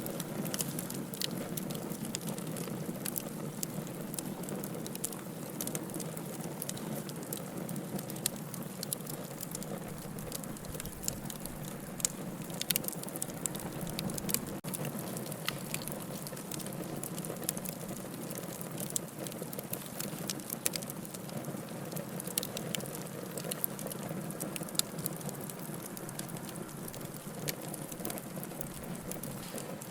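Log fire in a fireplace crackling, with irregular sharp pops and snaps over a steady soft rush of flames. A brief dropout in the sound about halfway through.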